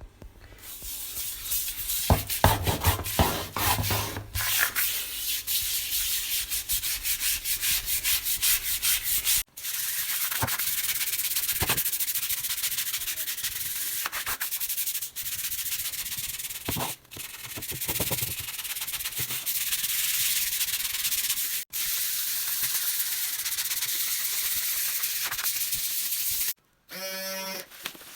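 Stiff brush scrubbing a floor with cleaning paste: fast back-and-forth strokes at first, then a steadier continuous rasping scrub.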